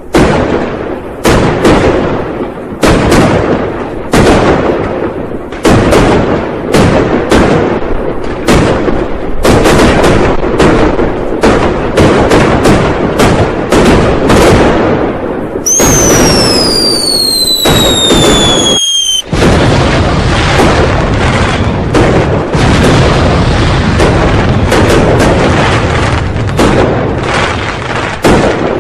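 Dense New Year firecrackers and fireworks going off, many loud bangs in quick overlapping succession. About sixteen seconds in, a whistle falls steadily in pitch for about three seconds and cuts off suddenly, after which the bangs run together into a near-continuous crackle.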